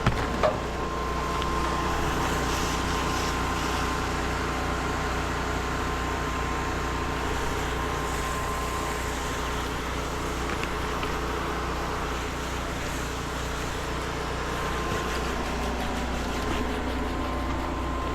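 A soft-wash rig's small engine and pump run steadily, with an even hum, a thin steady whine and the hiss of chemical spraying onto a roof.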